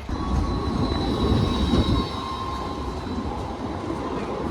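Light rail tram running through the stop with its wheels squealing: a high steady squeal over a rumble, loudest for the first two seconds, then easing off.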